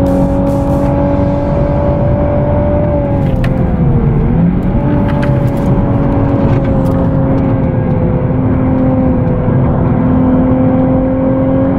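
Nissan 370Z's 3.7-litre V6 heard from inside the cabin, running hard and steady at high revs while lapping a track. Its pitch dips briefly about four seconds in, then holds steady again.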